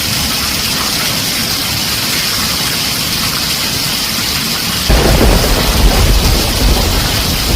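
Heavy rain drumming steadily on a tin roof; about five seconds in, a loud rumble of thunder breaks in and keeps rolling.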